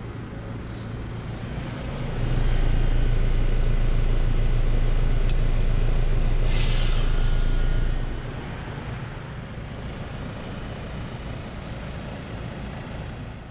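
Trane XR13 heat pump outdoor unit running with a steady low hum. The hum grows louder about two seconds in and falls back about six seconds later. A short hiss comes shortly before it falls back.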